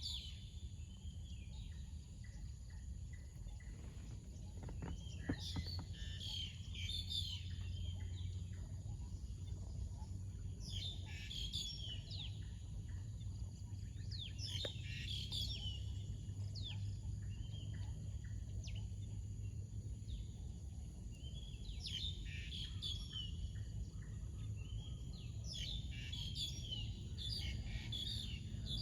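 Several birds singing and calling in bursts of quick chirping notes every few seconds, over a steady high insect drone and a low steady rumble.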